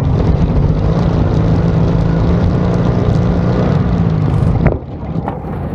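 Racing riding lawn mower engine running loud and steady at high revs. About four and a half seconds in there is a sharp click, and the engine sound drops away suddenly.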